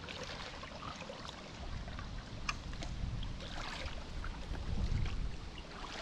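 Paddle strokes dipping and splashing in the water beside an inflatable paddle board, with a few swells of splashing and a low wind rumble on the microphone.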